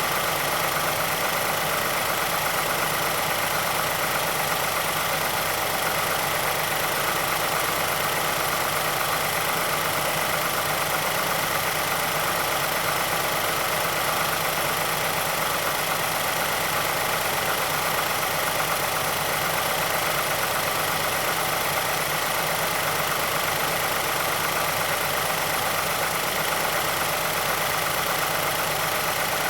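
2006 Mazdaspeed6's 2.3 L turbocharged direct-injection four-cylinder idling steadily as it warms up after a cold start. This is the engine whose VVT actuator ticking and timing chain rattle are covered by Mazda's SSP-87.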